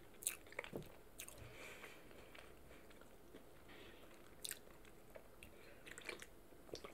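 A person chewing and biting food close to the microphone: faint scattered mouth clicks over a quiet background, a few a little louder about a second in and near the end.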